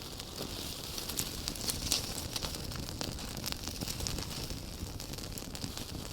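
Wood campfire crackling: a steady hiss with frequent irregular sharp pops and snaps, a louder pop about two seconds in.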